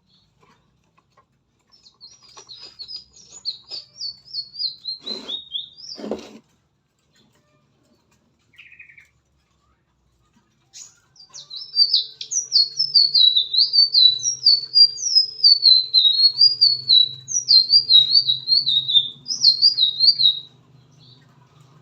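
A songbird chirping in rapid, zigzagging high-pitched runs of notes, in two long bouts, the second louder. Two sharp knocks come between them, about five and six seconds in.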